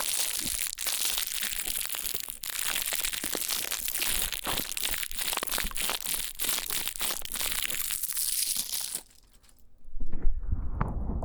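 Dense crackly scratching on the ears of a KU100 binaural dummy-head microphone. It stops about nine seconds in, and after a brief gap a low rumbling rub on the microphone begins.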